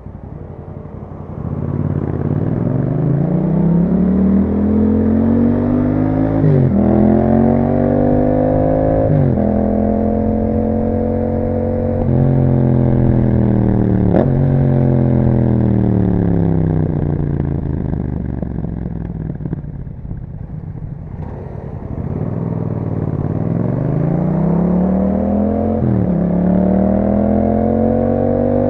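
A Yamaha MT-07's 689 cc parallel-twin engine, breathing through an Akrapovic exhaust with a dB killer, accelerates up through the gears; the revs climb and drop sharply at each quick upshift. About midway the rider eases off and the revs fall as the bike slows. Then it pulls away again with another upshift near the end.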